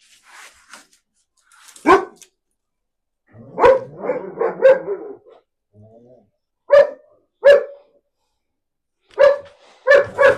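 Dog barking repeatedly: single sharp barks and quick runs of two or three, about nine in all.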